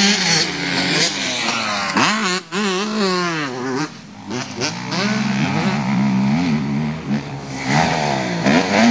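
Motocross bike engines revving up and down as riders work the track, pitch repeatedly rising and falling with overlapping bikes; the sound dips briefly about four seconds in.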